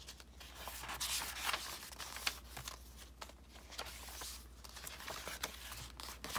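Paper pages of a thick handmade junk journal being turned and handled: irregular rustling and crinkling with a few sharp flicks, busiest from about one to two and a half seconds in.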